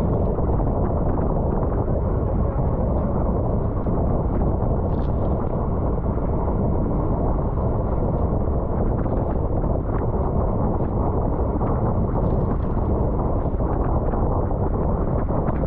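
Steady wind rush on the microphone of a racing cyclist's camera, with a low rumble of bicycle tyres on wet road.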